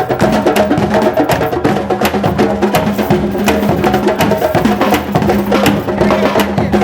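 Drumming circle: many drums struck in a fast, dense rhythm over a steady low drone.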